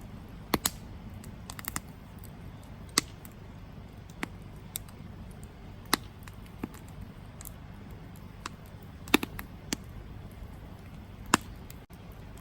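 Campfire burning, wood crackling and popping at irregular intervals over a low steady rumble of the flames, with about a dozen sharp pops, the loudest a little after the start and near the end.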